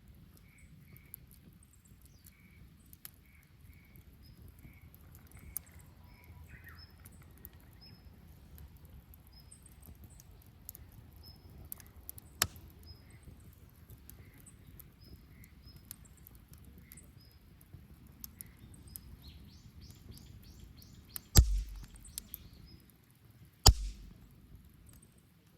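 Open wood fire burning with a low steady rumble and scattered sharp crackles and pops, while a bird chirps again and again in the background. Two loud thumps come near the end.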